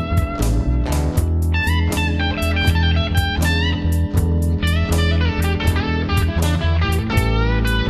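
Blues-rock band playing an instrumental passage: electric guitar notes with short upward bends over bass and drums.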